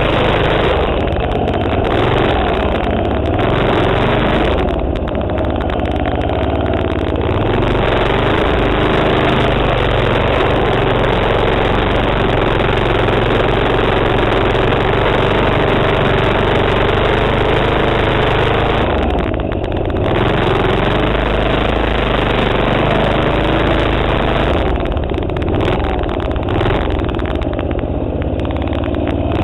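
Small single-cylinder Tecumseh 3.5 HP four-stroke engine on a minibike running under a rider's throttle, its speed rising and falling, with several brief easings off the throttle.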